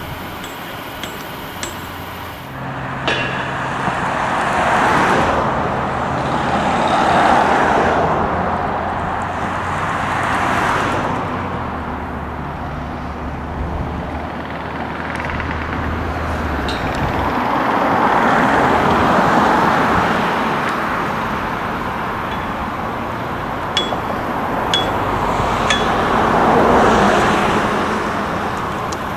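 Road traffic passing in waves, each vehicle swelling and fading away. A low engine hum runs under it through the first half, and a few sharp metallic clinks come near the start and again near the end.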